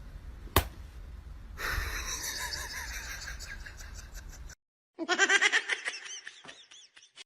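A sharp click, then a few seconds of noisy background. After a sudden cut comes a run of quick, high-pitched laughing bursts, about ten a second, fading out near the end.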